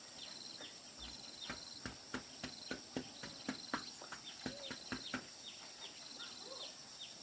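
Insects chirping in short high trills that repeat about once a second over a steady high hum, with many irregular light taps and clicks and a few brief bird-like chirps.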